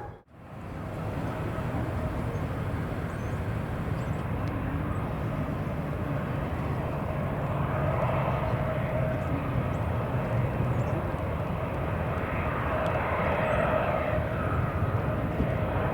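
Jet airliner engines running, a steady low rumble with a faint whine that swells around the middle and again near the end. It follows a moment of silence at the very start.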